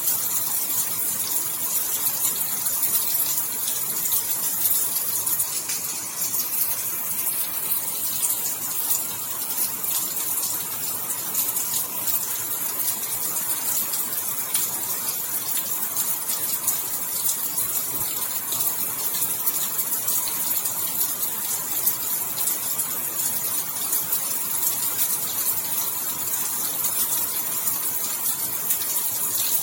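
Steady heavy rain, a dense even hiss of falling drops with fine patters throughout.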